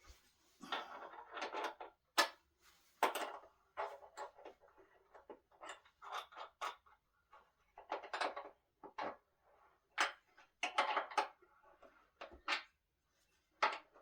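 Irregular clatter of hardware and tools being handled while a solid-wood dining table is assembled: scattered knocks, clicks and short scrapes in uneven clusters.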